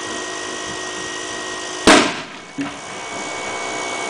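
Electric air pump running steadily as it overinflates a basketball, then about two seconds in the ball bursts with one loud bang, at about 96 psi.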